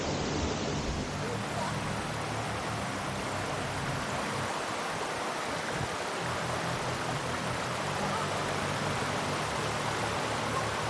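Steady rush of a waterfall's cascading water.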